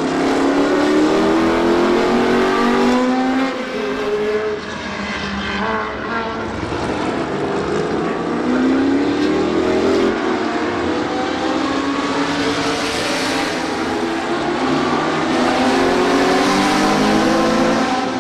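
Historic racing sports cars driving past one after another, engines accelerating with the pitch climbing and dropping back at each gear change, in several waves.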